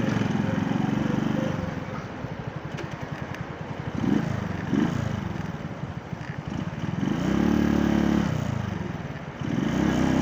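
Motorcycle engine riding in traffic, pulling and easing off: two quick revs about four seconds in, then two longer pulls with the engine note held near the end.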